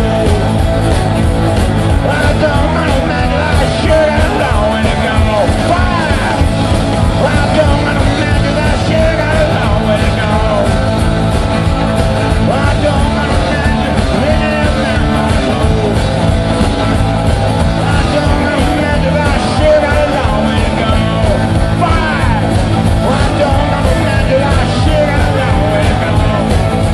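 Live blues-rock band playing an instrumental break: a lead line of bending, wavering notes over steady bass and drums.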